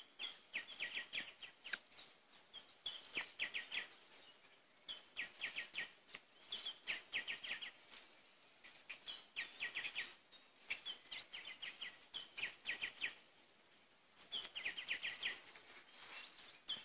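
A bird singing the same short phrase over and over, about every two seconds. Each phrase is a brief high note followed by a quick run of four to six notes.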